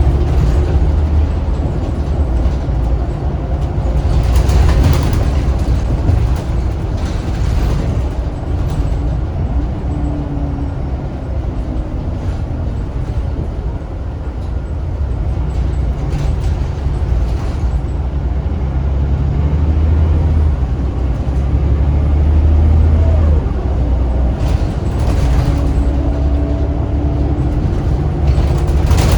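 Scania DC9 9-litre six-cylinder turbo diesel of a Scania L94UB bus running under way, its loud low drone easing off around the middle and building again as the bus accelerates. A few short rattles come through near the start and near the end.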